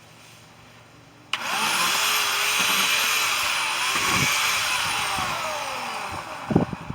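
A handheld power tool's motor switches on abruptly at full speed, its whine wavering as it works, then winding down in pitch; a few sharp thumps near the end.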